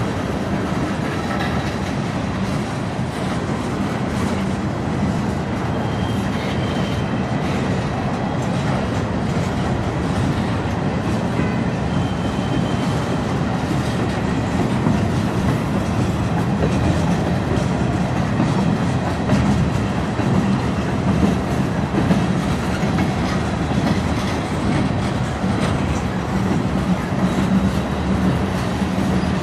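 Freight train cars, tank cars and gondolas, rolling steadily past: a continuous rumble of steel wheels on rail with wheels clicking over the rail joints, a little louder in the second half.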